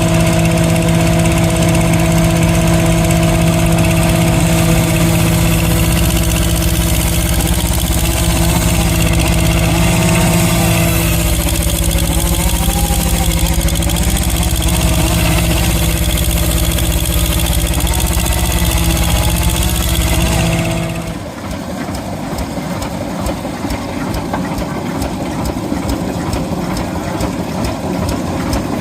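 Vintage engine running at a steady speed with a constant droning note for about twenty seconds, then a cut to a different engine running with a fast, even clatter.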